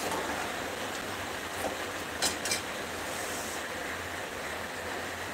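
Battered cauliflower pieces sizzling in hot oil in a kadhai, a steady hiss, with a few quick scrapes of a steel spoon against the pan a little over two seconds in.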